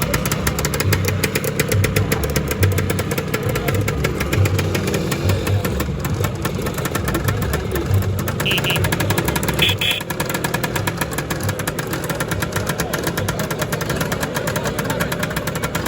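Lambretta scooter two-stroke engine idling with a steady, rapid run of firing pulses. Two brief high beeps sound about halfway through.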